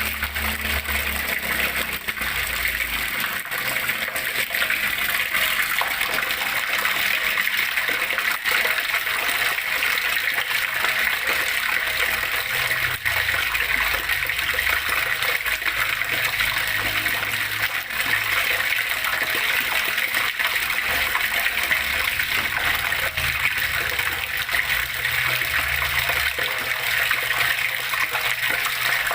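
Water flowing and splashing in a steady, unbroken rush.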